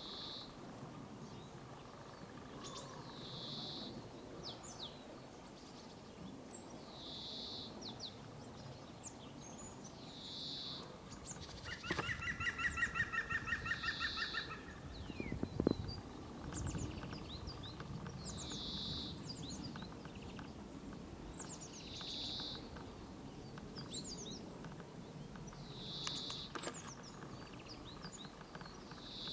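Small songbirds calling outdoors in winter: a short high call repeats about every three to four seconds with thin high chips between, and a rapid churring rattle lasts about two seconds midway. A single low thump follows shortly after the rattle.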